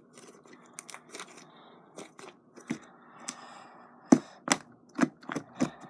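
Fluffy shaving-cream slime mixed with regular slime, worked and squeezed by hand, making a string of sharp clicks and pops. The clicks come louder and closer together in the last two seconds.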